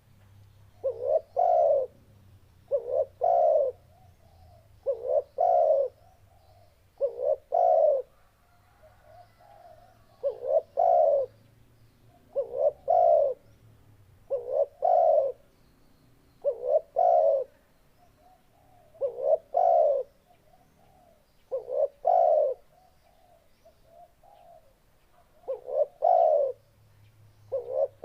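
Spotted dove (tekukur) cooing its song over and over: each phrase is a quick pair of short notes followed by a longer coo, repeated about every two seconds.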